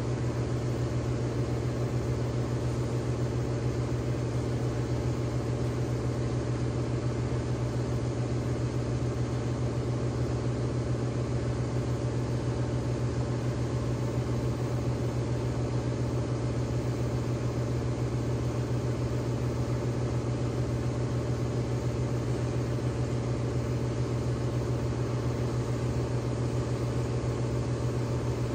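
A machine running with a steady low hum over an even hiss.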